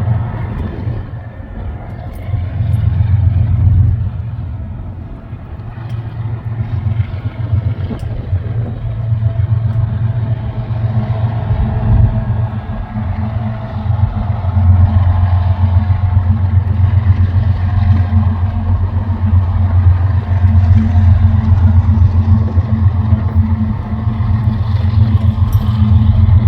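Diesel freight locomotives running past, a loud steady low rumble that grows louder about fourteen seconds in.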